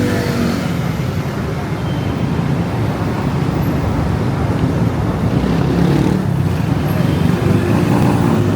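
Steady road traffic on a busy city street, vehicle engines running close by.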